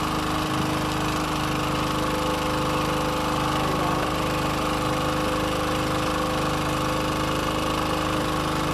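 Boat engine running steadily, an even drone with a constant pitch.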